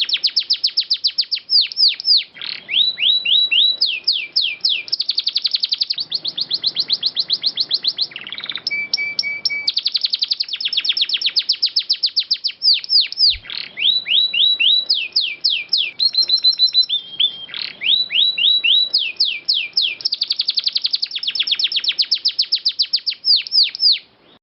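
Domestic canary singing in long rolls: fast trills of repeated downward-sweeping notes, switching from one trill to another every second or two, with a few short held whistles between them. The song stops abruptly at the very end.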